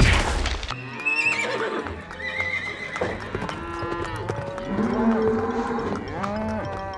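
Cows mooing, several long calls one after another.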